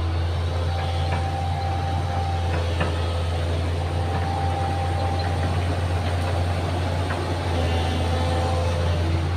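An excavator's diesel engine running with a steady low drone. Fainter higher whines come and go over it, and there are a few light knocks.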